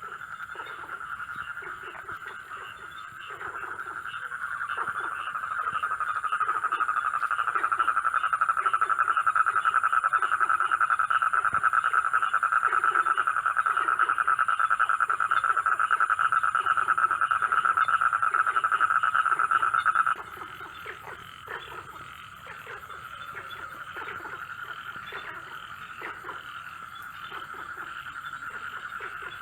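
A night chorus of many frogs calling in a dense, fast trill, with scattered lower croaks and a steady high-pitched insect whine over it. The trilling swells to its loudest in the middle, then drops suddenly about two-thirds of the way through and carries on more quietly.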